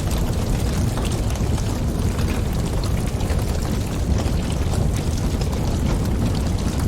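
Wood fire burning, with a steady low rumble of flames and wind and frequent small sharp crackles and pops throughout.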